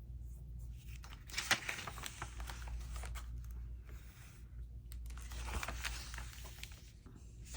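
A glue stick rubbed across paper, a dry scraping rustle in two bouts, one about a second in and another around five seconds, over a low steady hum.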